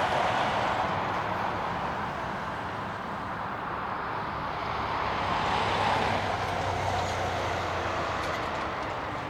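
Boeing 747-400F freighter's four jet engines, a steady rush and rumble that swells to a peak about six seconds in and then eases off as the aircraft passes on its landing.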